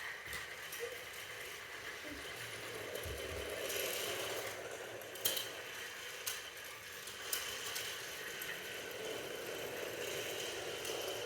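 Steady mechanical running with a light rattle, and three sharp clicks about a second apart near the middle.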